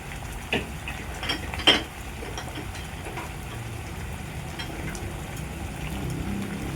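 Metal spoon clinking and tapping against a cooking pot a few times while stirring in seasoning, the loudest knock about two seconds in, over a steady low background hum.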